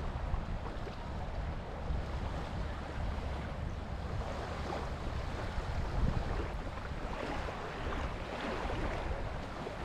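Ocean surf breaking and washing on the beach in slow swells, under a steady low rumble of wind buffeting the microphone.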